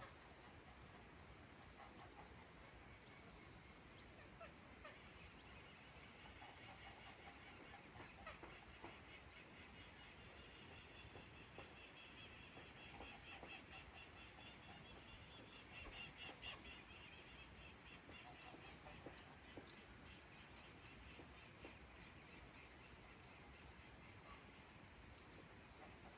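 Faint countryside evening ambience: distant birds calling, with a fast, pulsing high trill that builds through the middle and fades again.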